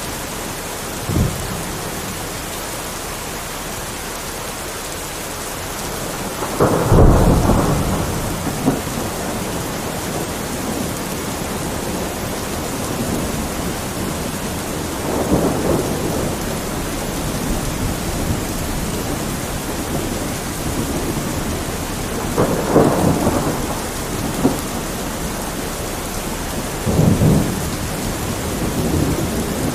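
Steady heavy rain with thunder rumbling several times, the loudest rumble about seven seconds in.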